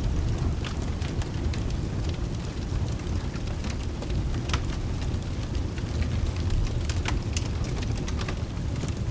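Wood fire crackling, with sharp irregular pops over a steady low rumble and a soft hiss of rain.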